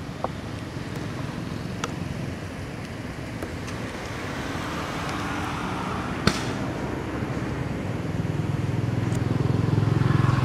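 A motor engine running steadily with a low rumble, growing louder near the end. There is a sharp click about six seconds in, and a few fainter ones.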